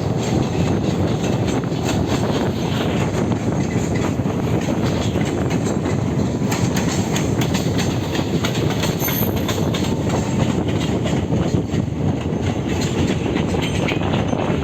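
A moving train running steadily on the track, its wheels clattering over the rail joints.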